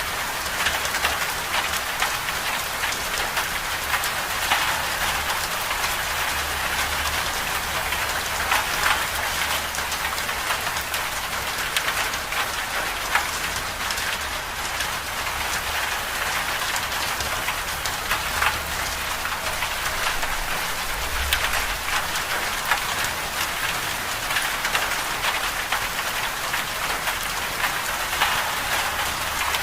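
Winter storm ambience: a steady, dense hiss of precipitation striking a surface, full of fine ticks, over a faint low rumble.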